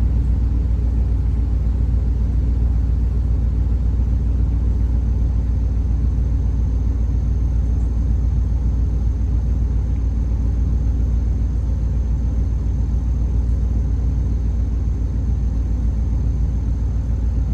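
A steady low rumble with no distinct events, and a faint thin high tone coming in about four seconds in.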